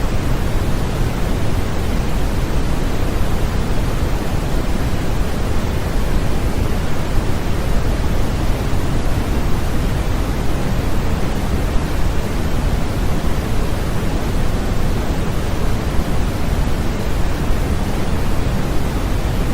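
Steady, unchanging generated noise played as a baby sleep aid. It is a constant rushing hiss weighted toward the low end, more like pink noise than flat white noise.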